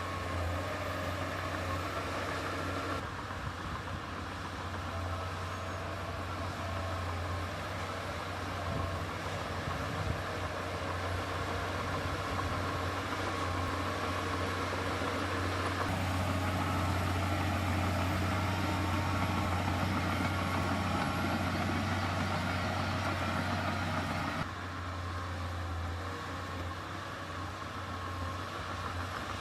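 Heavy diesel engine of earthmoving machinery running steadily with a deep low hum. It gets louder abruptly about halfway through and drops back just as abruptly near the end.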